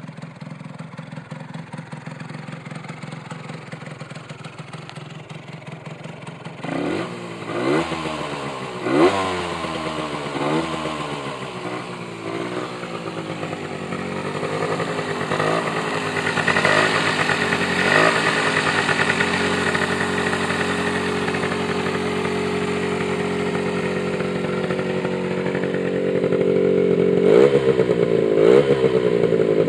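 1993 Honda NS125R's 125 cc single-cylinder two-stroke engine idling, then revved in a series of quick throttle blips from about seven seconds in. After that it is held at raised revs, with two more blips near the end.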